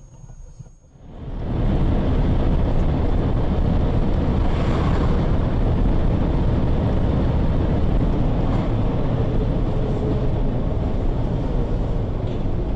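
Loud, steady vehicle rumble with no distinct events, starting about a second in.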